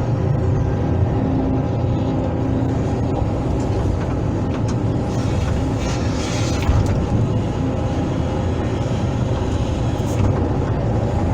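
Hydraulic excavator's diesel engine running steadily under working load, with a few brief clatters and hisses as it works gravel.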